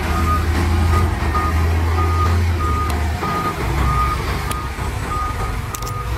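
Heavy diesel machine's reverse alarm beeping steadily, a little under two beeps a second, over the low rumble of its engine; the rumble eases about three seconds in.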